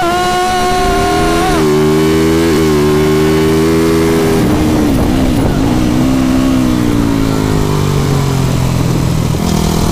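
TM Racing TM450 supermotard's single-cylinder four-stroke engine heard from on board at speed. It holds high revs at first and drops in pitch about a second and a half in. It dips briefly a few times around the middle, falls slowly, then picks up again near the end.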